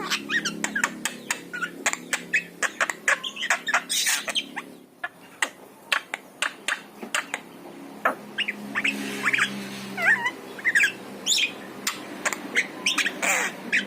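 Javan myna calling: a fast, uneven run of sharp clicks, short chirps and harsh squawky notes, with a brief lull about five seconds in.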